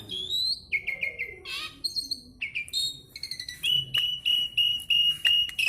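Greater green leafbird (cucak ijo) and Asian pied starling (jalak suren) singing against each other: a fast, varied string of whistles and chirps, with a run of evenly repeated whistled notes at one pitch in the second half.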